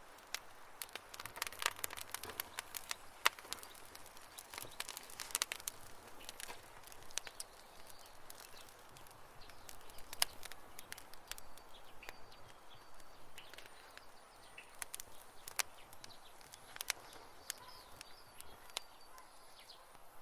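Campfire crackling: irregular sharp pops and snaps of burning wood over a soft hiss, busiest in the first few seconds and sparser after that.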